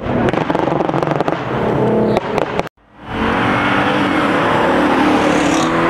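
Drift car's engine revving hard, with sharp crackles in the first half. It cuts out abruptly for a moment about halfway through, then comes back running at high revs with a steady, slightly rising pitch.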